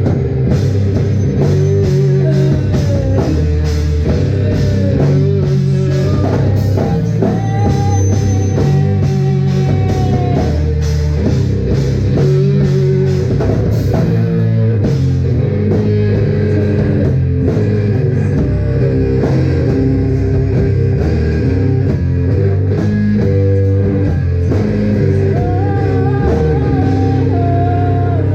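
Live rock band playing loudly: distorted electric guitar over a driving drum kit.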